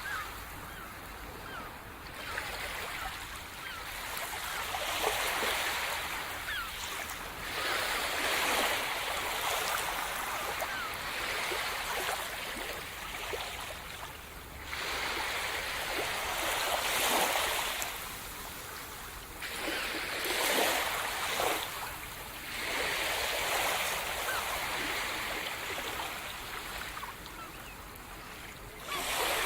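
Sea surf: waves breaking and washing up the shore in swells that rise and fall every few seconds, each with a fizzing hiss.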